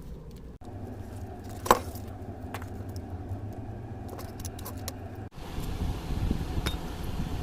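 Light metallic clinks and taps of small hard parts being handled, with one sharp knock under two seconds in, over a low steady hum.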